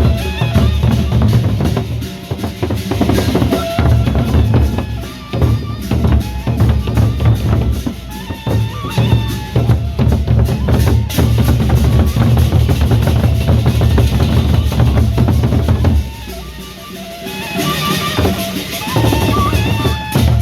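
Gendang beleq procession ensemble playing: big drums beating hard and fast under clashing cymbals, with a wavering melody line above. It drops back for a moment near the end.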